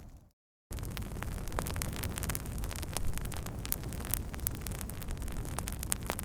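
Campfire crackling, with frequent sharp pops and snaps over a steady low rumbling noise. The sound drops out completely for a moment just after the start, then picks up again.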